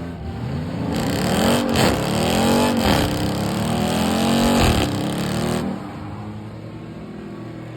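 Car engine revving up and down over and over, loudest between about one and five and a half seconds in, then dropping back to a lower, steadier engine sound.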